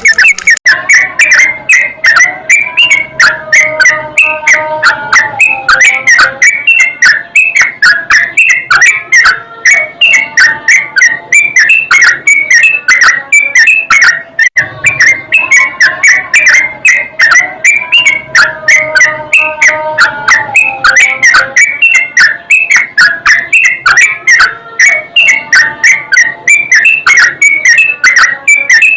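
Yellow-vented bulbul (trucukan) song: quick whistled phrases over dense crackling clicks, the same sequence of phrases coming back about every 7 to 8 seconds like a looped recording.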